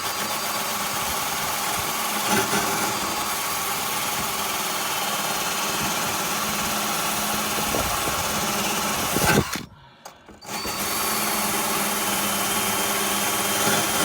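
Electric drill spinning a wire wheel brush against rusty car underbody metal, scouring off surface rust. It runs steadily, stops for about a second after roughly nine and a half seconds, then starts again.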